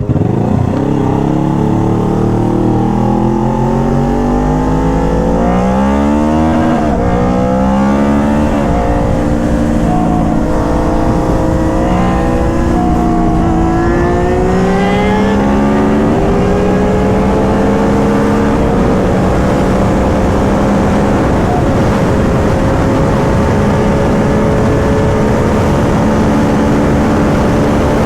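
Motorcycle engine accelerating hard through several upshifts, the pitch climbing and dropping back at each gear change. After about 16 seconds it settles into a steady, slowly rising cruise.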